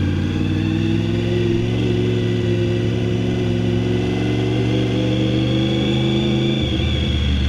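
Honda VFR750F's V4 engine running without a muffler at low riding speed. The exhaust note holds steady, then changes abruptly about six and a half seconds in.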